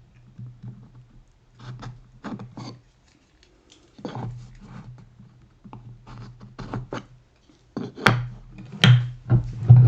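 Wooden workpieces and hand tools handled on a workbench: intermittent scratching and rubbing, with two sharp knocks near the end.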